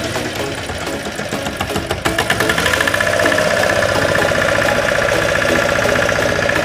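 Motorboat engine running, growing louder about two seconds in and then holding a steady whine.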